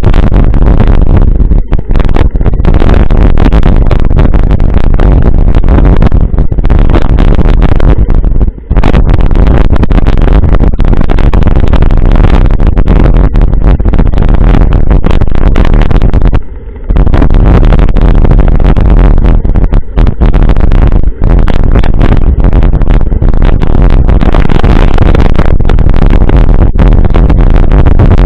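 Loud, steady wind rushing on the microphone of a camera riding along on a moving bicycle, with two brief lulls, one about a third of the way through and one about two thirds of the way through.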